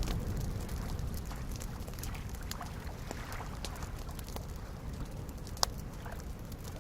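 Campfire crackling with scattered small pops, over soft lake waves lapping in a steady low wash; one louder pop toward the end.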